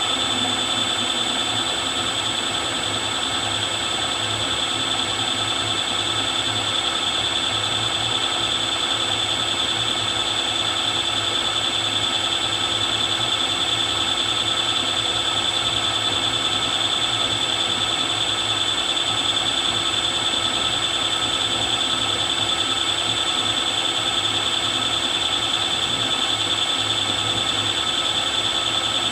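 Milling machine running steadily with a 6 mm end mill cutting a deep slot, a constant high whine over the motor hum.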